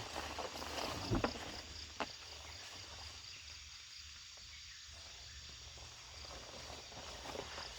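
Insects chirping in a steady pulsing drone, with two sharp knocks about one and two seconds in.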